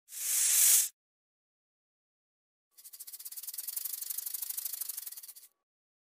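Snake hissing: a short hiss that swells and cuts off within the first second, then, about three seconds in, a longer hiss that pulses rapidly, around ten times a second, and stops abruptly.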